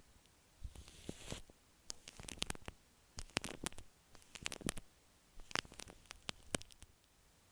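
Shaving cream squished and rubbed against an earphone microphone, giving clusters of wet crackles and pops in about five short bursts. The bursts stop shortly before the end.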